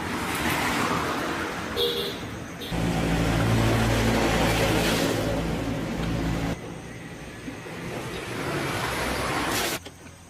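Road traffic: motor vehicles passing, the sound swelling and fading, with one engine running loudest from about three to six and a half seconds in.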